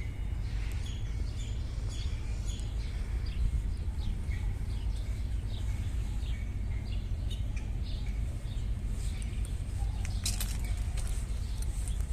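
Small birds chirping over a steady low rumble, with a few brief clicks about ten seconds in.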